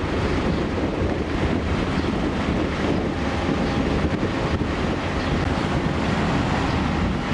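Steady wind noise on the microphone over the low, constant rumble of a large car ferry under way, with the wash of the sea.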